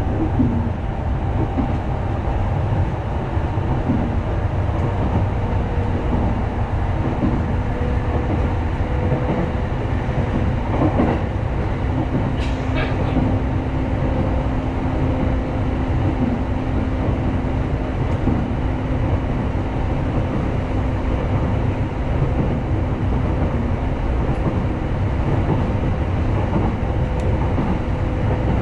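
Electric commuter train running along the line, heard from inside the carriage: a steady rumble with a faint constant motor hum. A few brief clicks and a short high squeak come near the middle.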